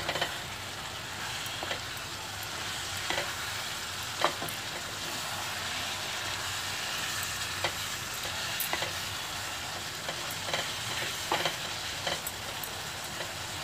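Liver pieces sizzling in masala in a pan on low heat while a spatula stirs them, with scattered short scrapes and taps of the spatula against the pan.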